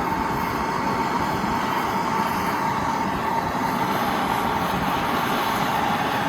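Gas torch flame burning with a steady hiss, heating steel cherry red for bending.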